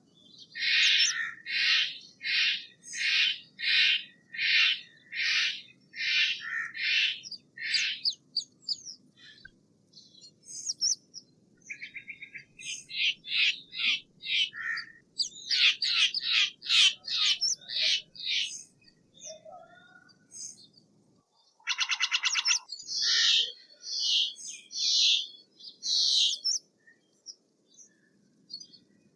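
Steller's jay calling in runs of short, harsh, repeated notes. There is a run of about a dozen in the first eight seconds and a faster run in the middle. Near the end comes a short rasping rattle followed by a few more calls.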